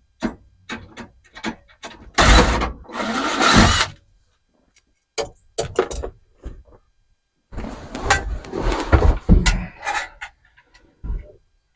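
Handling noise from a car stereo being pulled out of its dash mount: scattered clicks and knocks, and twice a longer spell of metal scraping and rattling, about two seconds in and again past the middle.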